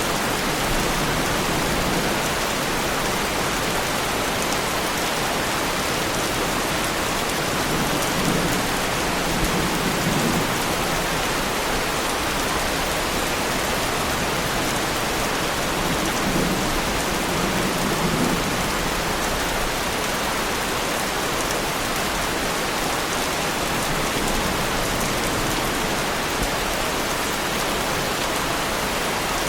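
Heavy rain falling steadily on a car, an even, unbroken hiss of drops on the bodywork.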